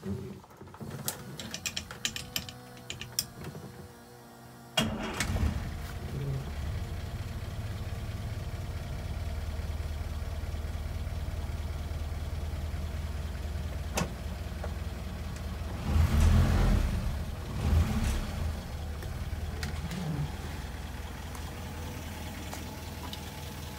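Cold start of a 1959 Land Rover Series II's engine: the starter cranks for a few seconds, the engine catches about five seconds in and settles into a steady idle, rising briefly twice a little after two-thirds of the way through.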